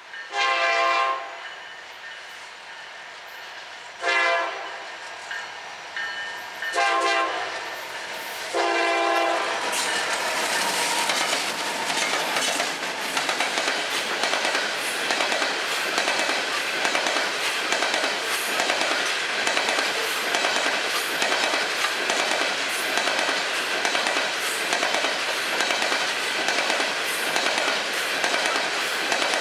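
Freight locomotive air horn sounding four blasts for a grade crossing. After the fourth blast the train arrives alongside, and its freight cars and coal hoppers roll past with a steady clatter of wheels over the rails.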